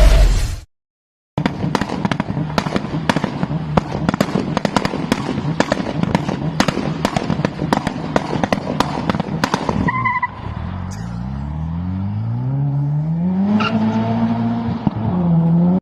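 A car's loud exhaust crackling and popping rapidly for several seconds over the engine's rumble. After a cut, a car engine revs up, its pitch climbing steadily for about four seconds and then holding.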